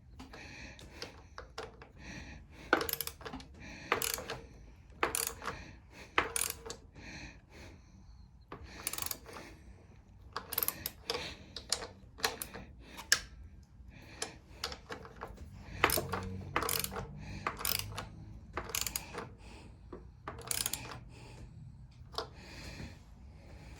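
Irregular metallic clicks, clinks and knocks of hand tools and small metal parts being handled and set down, as a push-mower engine is reassembled.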